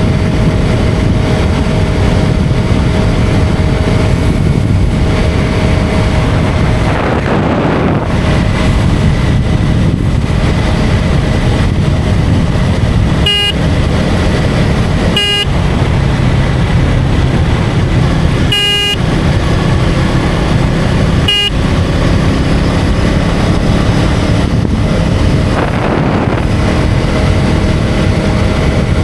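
KTM Duke 250's single-cylinder engine running steadily under way with wind rush. A vehicle horn toots four short times about halfway through.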